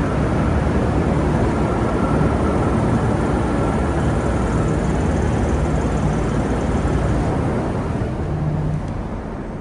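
Passenger train running, a steady rumble and hiss that eases off after about eight seconds.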